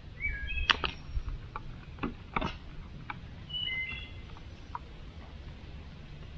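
Short high chirps, like a small bird calling, near the start and again about halfway through, with several sharp clicks or knocks in the first half over a low, steady rumble.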